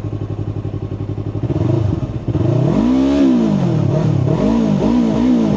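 2018 Yamaha R3's parallel-twin engine idling, then revved: one big rise and fall in pitch about three seconds in, followed by a few quicker blips of the throttle.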